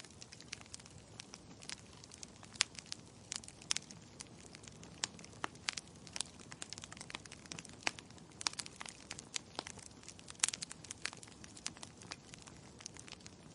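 Wood logs burning in a fireplace, crackling and popping in irregular sharp snaps, several a second, over a soft low hiss.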